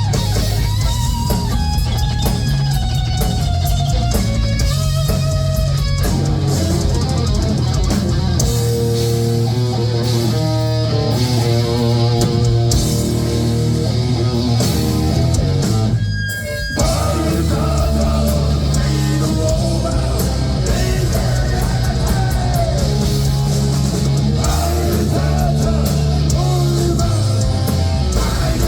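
Heavy metal band playing live: distorted electric guitar lead lines over bass and drums. The band breaks off for a moment about 16 seconds in, then crashes back in.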